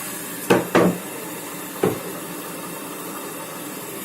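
Candy Grand'O Vita washing machine at the start of its cycle while it detects the load: a steady hiss with three knocks, two in quick succession about half a second in and one more about a second later.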